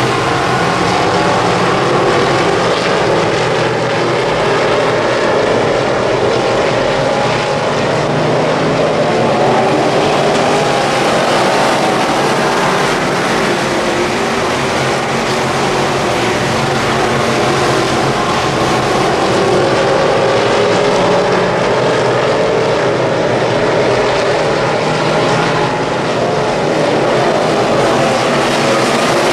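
Midwest Modified dirt-track race car V8 engines running at racing speed, their pitch rising and falling as the cars lift and accelerate.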